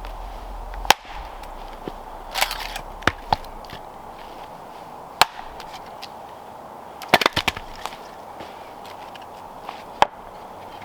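Wood being chopped: sharp knocks and cracks at irregular intervals, with several in quick succession a couple of seconds in and again past the middle.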